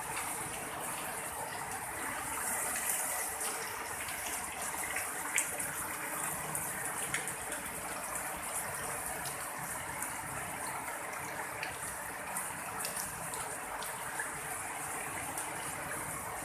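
Rain falling steadily, an even hiss with scattered sharp ticks of drops striking nearby surfaces.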